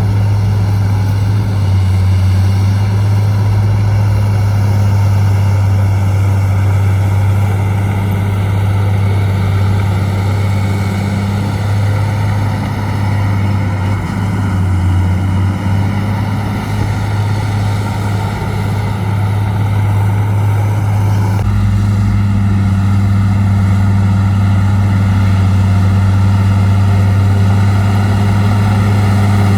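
Heavy dump truck's diesel engine running steadily with a deep, even hum. The sound changes abruptly about two-thirds of the way through, then runs on steadily.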